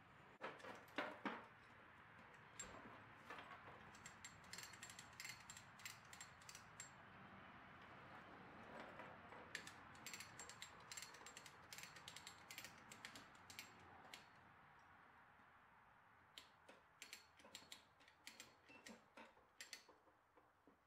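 Faint ratchet clicking in quick runs with short pauses between them, as a hand ratcheting tool is worked.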